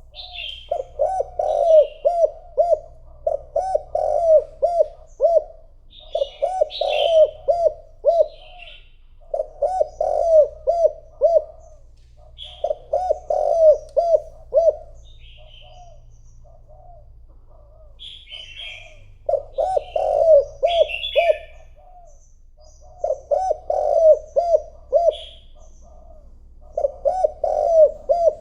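Spotted dove giving its bowing coo: quick runs of several low coo notes, repeated every few seconds, the decoy call used to lure wild doves. Short, higher chirps from another small bird fall between and over the phrases.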